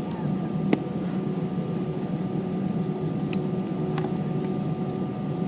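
Steady cabin noise inside an Airbus A320: a low hum with a few faint steady tones over it. It is broken by three sharp clicks, about one second in, a little past three seconds, and at four seconds.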